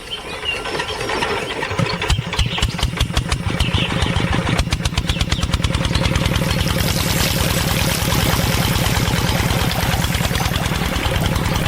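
A small engine starts about two seconds in; its firing pulses quicken and settle into a steady idle by about six seconds in.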